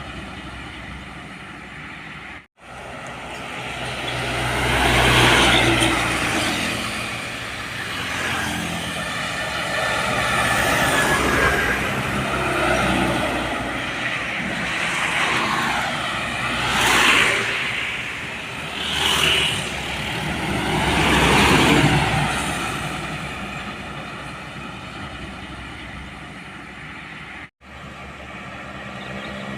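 Road traffic with trucks passing close by one after another, each engine and tyre noise swelling up and fading away, about five passes in all. The sound cuts out for an instant twice, once near the start and once near the end.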